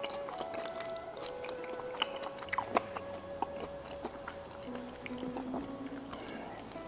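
A person eating gulai tempe gembus (soy-pulp tempeh in coconut-milk curry) close to the microphone: chewing with scattered short clicks, over soft background music with long held notes.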